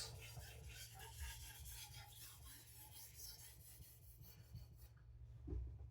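Faint scraping strokes of a chef knife's edge drawn back and forth on a whetstone with light pressure, stopping about five seconds in.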